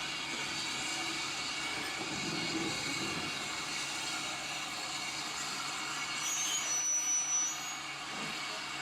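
Train running on rail track, a steady rumbling noise with a brief high-pitched squeal about six to seven seconds in.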